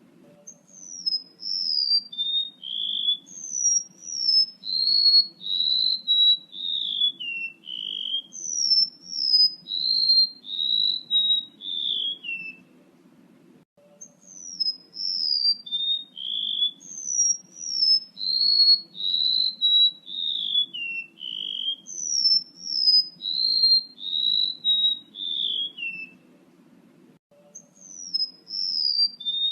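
Recorded calls of a male rementuk laut bird, played as a bird-catching lure: a long run of quick, falling whistled notes that step down in pitch from high to lower. The run plays twice, with a short pause between, over a faint low hum.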